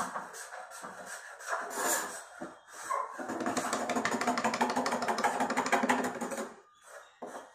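A small motor runs at a steady speed for about three seconds with a fast, even buzz, starting about three seconds in and cutting off sharply. It is preceded by irregular knocks and handling noises.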